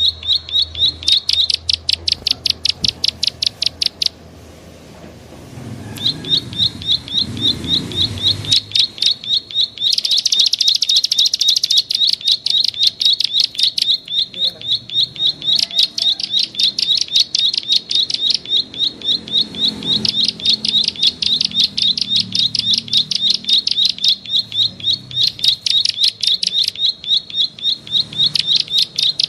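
A small bird's 'klik-klik' lure call: a fast, even train of short high chirps, about seven a second. It breaks off about four seconds in and starts again two seconds later.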